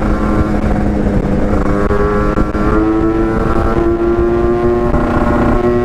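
Yamaha RX-King's single-cylinder two-stroke engine pulling uphill under load through a packed stock-style exhaust, its revs rising slowly. The pitch dips briefly about five seconds in, then climbs again, over a heavy low rumble of wind on the microphone.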